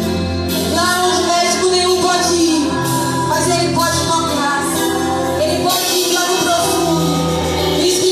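Live church worship music: voices singing over a band, with held bass notes and drums with cymbals.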